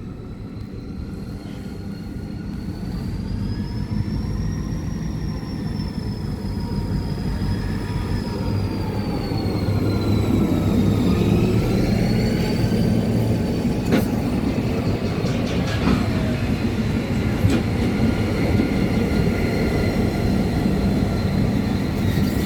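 NSW 81 and 82 class diesel-electric locomotives approaching and running past under power, their engine rumble and a high wavering whine growing louder over the first ten seconds and then holding steady. A few sharp clanks come in the second half.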